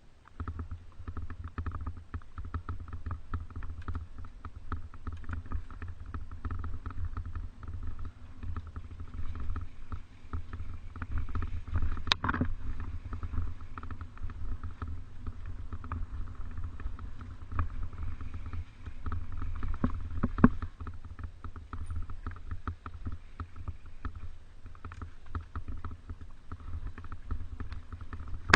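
Mountain bike rattling and clicking over a rough trail under a steady low wind rumble on the microphone, with sharper knocks about 12 seconds in and again about 20 seconds in.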